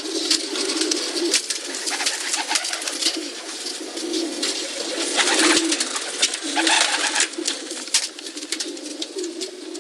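Pigeons cooing continuously, several low throaty coos overlapping, with a hiss and frequent sharp clicks over them.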